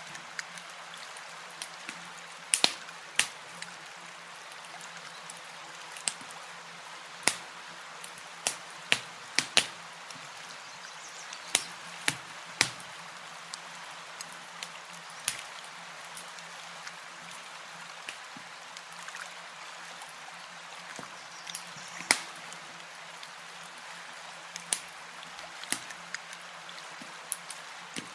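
Campfire crackling: sharp wood pops at irregular intervals, about one every second or two, over a soft steady hiss.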